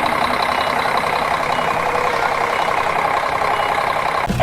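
Heavy vehicle engine running steadily, with a faint short high beep about once a second.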